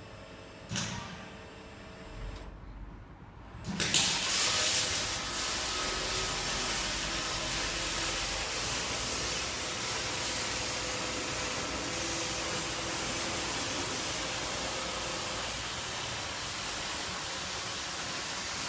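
Industrial wood cut-off saw machine: a click, a brief low rumble, then just under four seconds in a sudden start into a steady rushing, hissing machine noise that keeps running.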